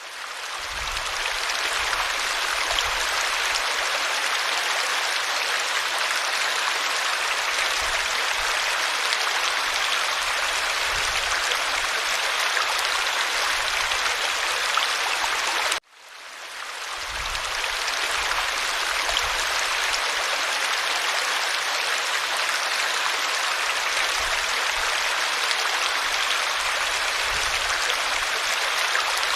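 Steady rushing and babbling of a stream. About halfway through it cuts out for an instant and fades back in over a second or two: the seam where the recording loops.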